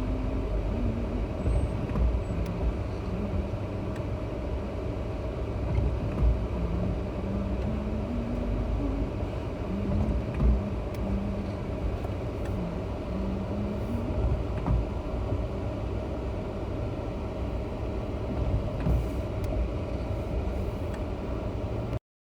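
Car running with a steady low rumble heard inside the cabin, and an engine hum that shifts up and down in pitch as it drives.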